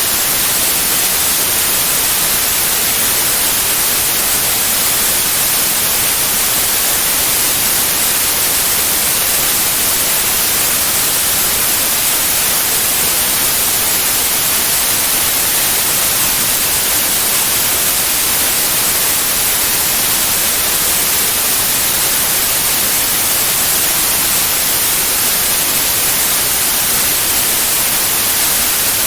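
Steady white noise: an even, unchanging hiss, loudest in the high frequencies.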